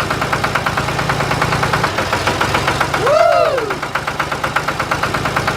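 Engine-like mechanical running: a fast, even chugging that holds steady throughout. A brief tone rises and falls a little past halfway.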